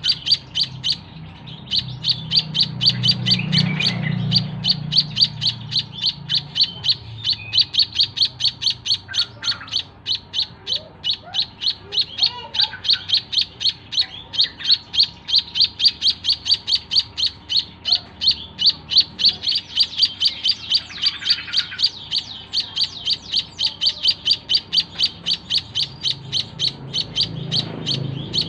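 White-headed munia (emprit kaji) giving a fast, even series of short, high chirps, about four a second, without a break. A low rumble sits under the calls a couple of seconds in.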